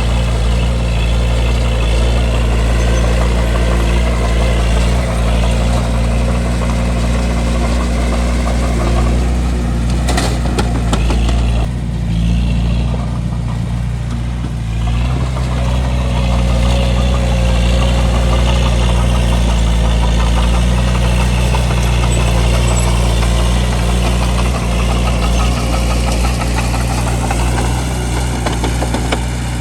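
Bulldozer's diesel engine running steadily while the machine pushes dirt, with a dip in the engine note for a few seconds about halfway through before it picks back up.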